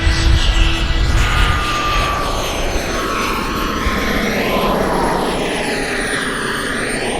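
A radio-controlled jet flying past. Its engine gives a steady high whine whose pitch slowly falls, with a rushing sound that sweeps and shifts as the plane passes.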